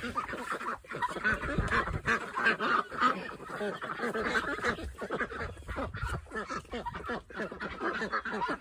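Farm poultry calling over and over, many short calls overlapping, with scattered sharp clicks.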